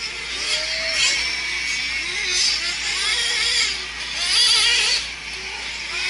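Several nitro-powered RC truck engines running at high revs, a high whine that rises and falls over and over as the trucks throttle up and back off around the track.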